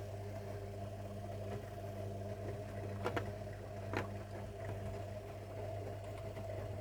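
Zanussi washing machine running a wash cycle, its drum motor humming steadily, with two sharp knocks about three and four seconds in.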